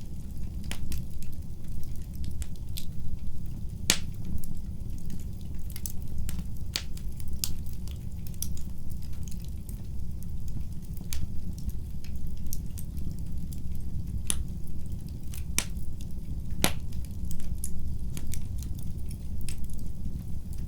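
Wood fire burning in a fireplace, crackling with scattered sharp pops over a steady low rumble of the flames; the loudest pops come about four seconds in and twice near the end.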